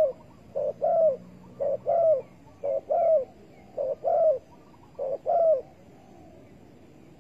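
Spotted dove cooing: six two-part coos, a short note then a longer arched one, about once a second, falling silent near the end.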